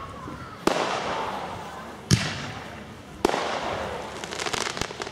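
Aerial fireworks bursting in the sky: three sharp bangs, each a second or so apart and each trailing off in a fading hiss, then a quick run of crackling pops near the end.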